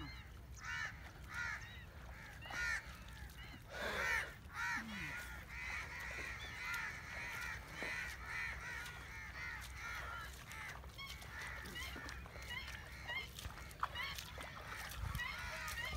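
Birds calling continuously, a rapid stream of short honking notes repeated a few times a second.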